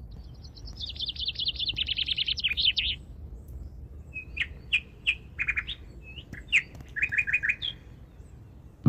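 Songbirds singing: a fast trill of high notes that falls in pitch over the first three seconds, then scattered short chirps and a quick run of notes, over a faint low background rumble.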